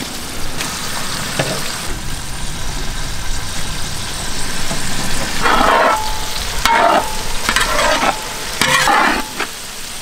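Tomatoes, green chillies and onions sizzling in hot oil in a large metal pot. From about halfway through, a metal ladle stirs them, scraping the pot in four or five strokes.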